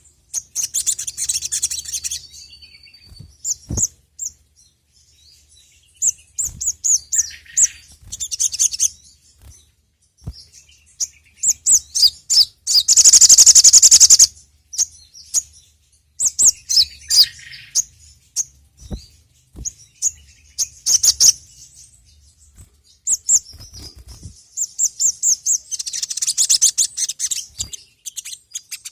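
Sogok ontong (sogon, little spiderhunter) singing in rapid bursts of high, sharp chirps, phrase after phrase with short pauses between them. There is a long, loud unbroken trill about halfway through and another dense burst near the end.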